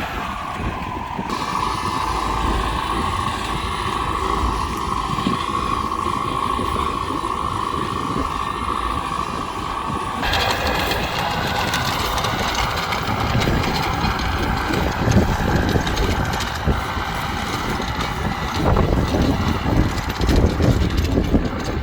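A tractor engine running steadily, with a steady whine that gives way to a harsher, noisier sound about ten seconds in.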